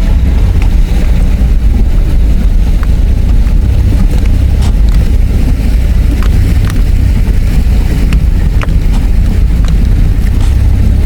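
Car driving slowly over a rough, rutted dirt track: a steady low rumble of engine and tyres, with scattered short knocks and rattles as it jolts over bumps.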